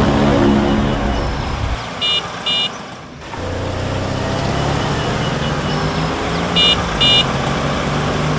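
A vehicle engine running steadily, dropping away briefly about three seconds in and then picking up again. A horn gives two quick double beeps, one pair about two seconds in and another near seven seconds.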